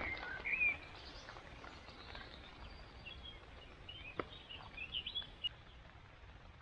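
Small birds chirping in short bursts, once near the start and again in a cluster around the middle, over a faint steady outdoor background with a few light ticks.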